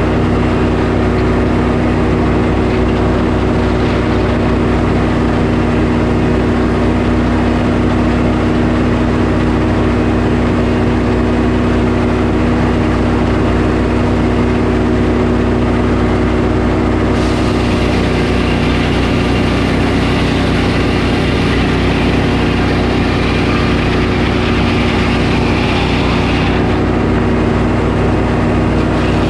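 Sawmill engine running steadily at a constant speed. About halfway through a brighter hiss joins it for roughly ten seconds, then stops shortly before the end.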